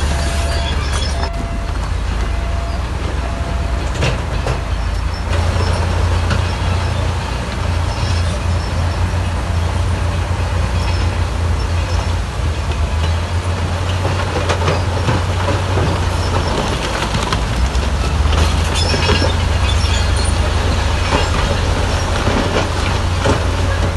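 Heavy earthmoving machinery at work: a diesel engine running steadily under load with repeated metallic clanking and scraping.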